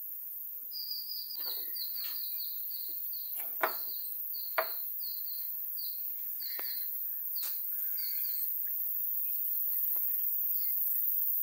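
A bird calling a rapid series of short, high chirps, several a second, over a steady outdoor hiss. A few sharp clicks come through it, the loudest two about a second apart near the middle.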